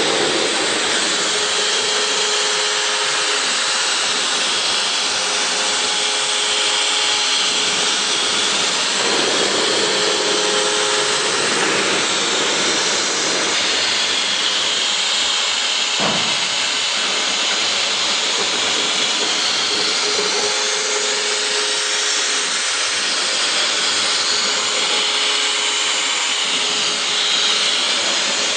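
CNC engraving-milling machine running and cutting: a steady spindle-and-cutter noise with a steady hum and a strong hiss, with one sharp click about halfway through.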